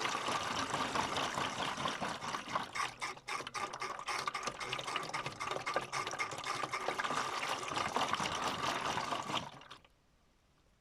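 Miele W1 toy washing machine running a modified rinse: its small motor whines at a steady pitch while water sloshes and splashes in the drum with many small irregular clicks. The machine stops abruptly near the end.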